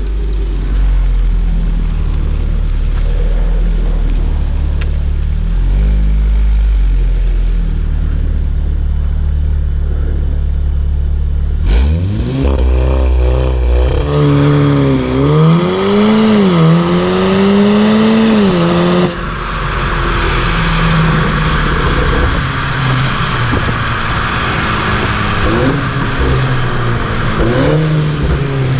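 Volkswagen Golf R's turbocharged 2.0-litre four-cylinder engine and exhaust running steadily at low revs. About twelve seconds in it revs up hard under acceleration, its pitch climbing and dropping back with each gear change. A little past halfway the sound breaks off abruptly into a steady hiss of road and wind noise over a low engine note.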